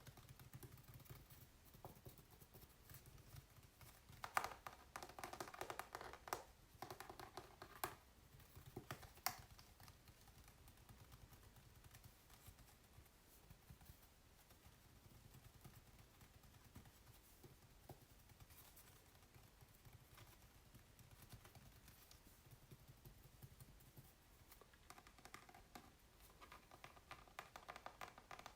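Fingers faintly tapping and scratching on an acrylic painting on canvas: a cluster of quick taps and scrapes about four to ten seconds in, quieter tracing after that, and the scratching picks up again near the end.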